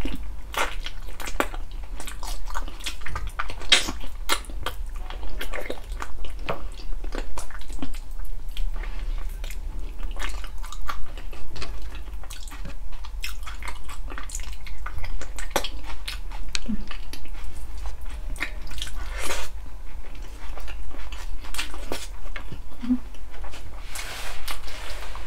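Close-miked chewing and wet mouth sounds of a person eating balbacua, a stew of gelatinous pork feet: an irregular run of small smacks, sticky clicks and bites.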